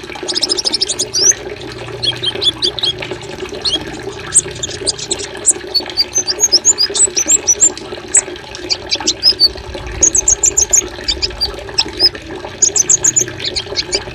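Assorted small songbirds chirping and trilling in quick runs of short high notes, over a steady rush of running water: a mixed birdsong master track of the kind used to train captive white-rumped shamas.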